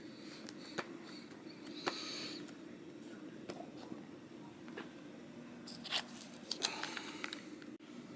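Scattered small clicks, taps and brief rustles of hands handling a laptop and an external hard drive while sticking the drive on with adhesive hanging strips, with a busier run of clicks and rustles near the end, over a steady low hum.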